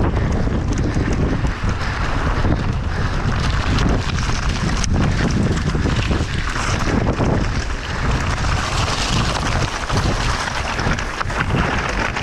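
Heavy wind buffeting the microphone at speed, over the clatter and rattle of a mountain bike descending rough ground.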